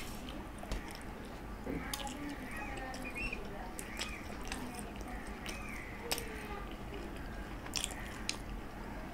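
A person chewing a mouthful of chicken curry and rice, with scattered wet mouth smacks and clicks every second or so.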